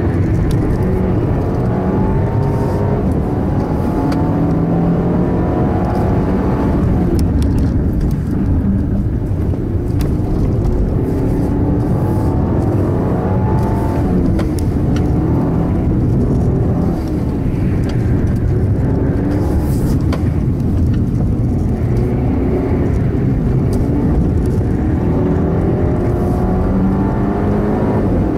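Audi A4 2.0 TFSI quattro's turbocharged four-cylinder engine heard from inside the cabin, driven hard around a racing circuit. Its pitch climbs again and again as the car accelerates through second and third gear, then drops at the shifts and on lifting for corners.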